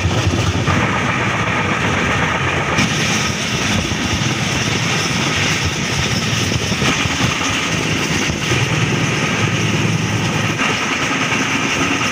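Steady rumble and rush of a train running at speed, with a Mumbai suburban electric local train passing on the adjacent track. The noise grows hissier about three seconds in.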